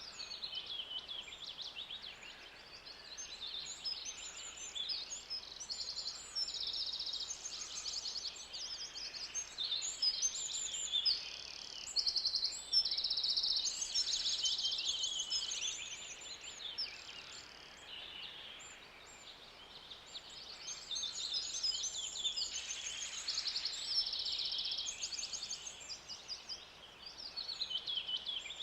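Forest ambience: a dense chorus of many birds calling and trilling at once, high-pitched and overlapping, swelling and easing in loudness.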